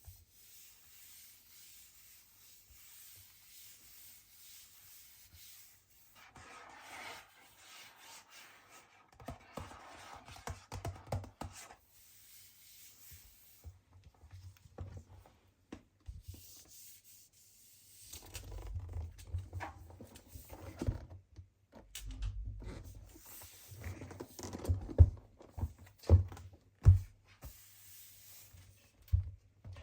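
Hands handling an iPad retail box and its packaging: rubbing, scraping and tearing of paper and cardboard with soft thumps, and three sharp knocks near the end the loudest.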